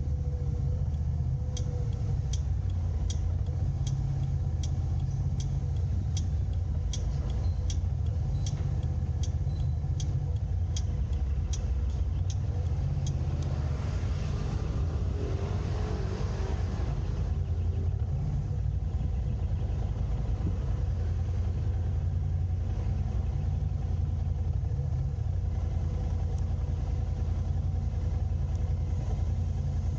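A moving car's steady low engine and road rumble. A regular ticking, about one and a half ticks a second, runs through the first dozen seconds, and a brief rush of noise swells and fades near the middle.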